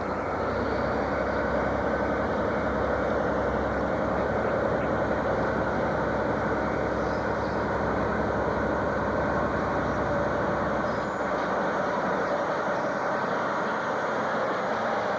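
Diesel train on a non-electrified branch line, running with a steady mechanical rumble that neither rises nor falls.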